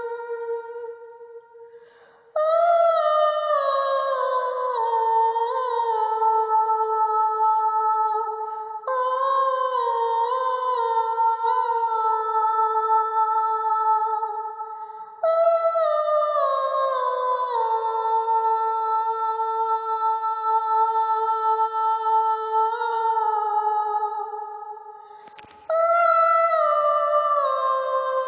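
Wordless soprano voice holding high tones in a series of phrases. Each phrase starts suddenly, steps downward through several notes with small slides between them, and fades away before the next begins.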